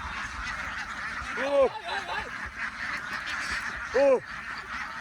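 A large flock of ducks quacking in a steady, dense chorus, with two much louder drawn-out calls rising and falling in pitch, about a second and a half in and again near four seconds.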